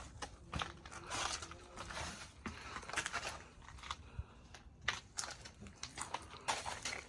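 Faint, irregular clicks and crackling.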